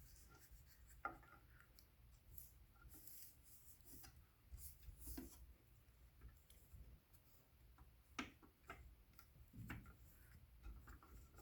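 Near silence, with a few faint scattered clicks and light rubbing as hands work over the garage door opener's housing, picking off sticky bits of broken belt.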